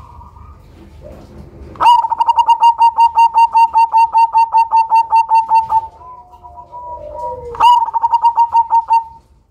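Zebra dove (black cemani perkutut) calling: a rapid run of short, loud staccato notes, about six a second, then a softer lower warble, then a second shorter run of the same notes.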